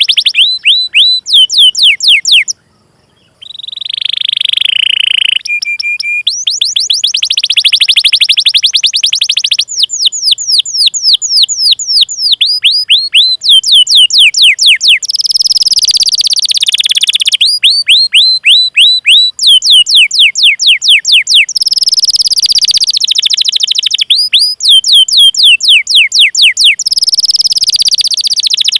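Domestic canary singing loud, long song: rapid runs of high 'cuit-cuit' chirps, several a second, alternating with rolled trills, with a brief break about three seconds in.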